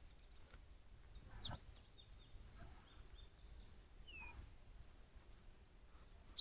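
Faint bird chirps over a low, steady rumble of forest ambience. There is a cluster of short high calls a second or two in, and a single downward-sliding call about four seconds in.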